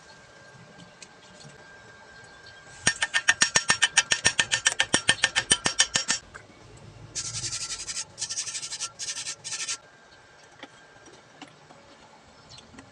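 Stick-welding arc sputtering in a fast even run of pulses, about eight a second, for some three seconds, then crackling in four short bursts with breaks between.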